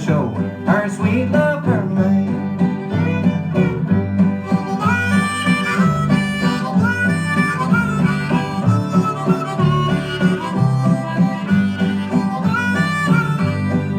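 Harmonica playing a melody solo over strummed guitar and a steady bass, the instrumental break of an old-time country record.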